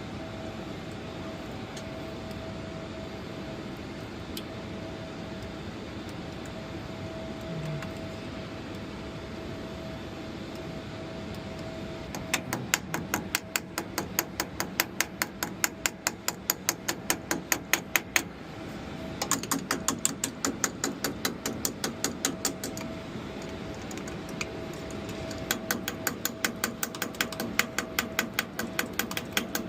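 A steady hum, then about twelve seconds in a ratchet wrench starts clicking in three quick runs of about three clicks a second, as a bolt is run down before torquing.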